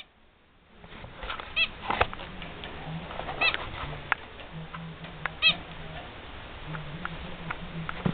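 Zebra finch giving three short, nasal calls about two seconds apart, with scattered sharp clicks between them.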